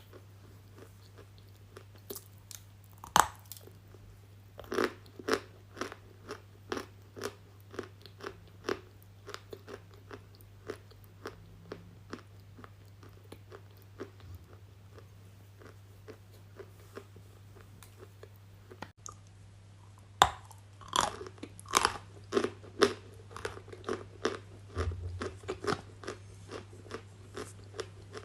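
Close-miked ASMR crunching: hard, brittle bites and chewing in an uneven run of sharp crackles, with loud bites about three seconds in and again near twenty seconds, over a faint low hum.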